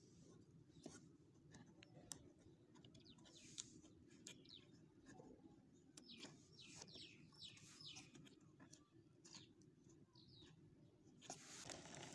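Near silence: faint outdoor background with small birds chirping, a quick run of short descending chirps in the middle. A few faint clicks of cardboard being handled.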